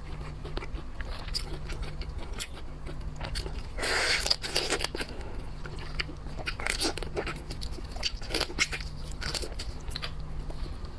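Close-up eating sounds of boiled seafood: repeated crunching and biting of shells and chewing, with a louder stretch of crunching about four seconds in.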